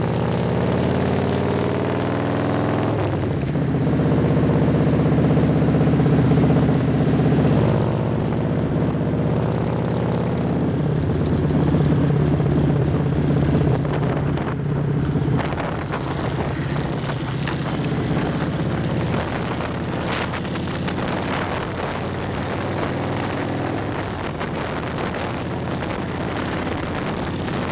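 A vehicle engine running under way, its pitch stepping about three seconds in and again around eleven seconds. In the second half a rushing noise of high wind takes over.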